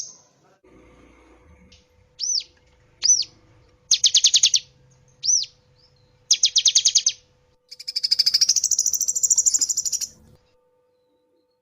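Cinereous tit (gelatik batu) calling: a few separate arched whistled notes between two short fast trills, then a longer buzzy rattling trill that stops about ten seconds in.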